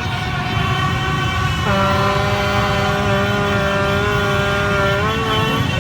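A horn sounds one long, steady blast starting about two seconds in and lasting about three seconds, its pitch wavering just before it stops. Underneath is the steady rumble of vehicle engines.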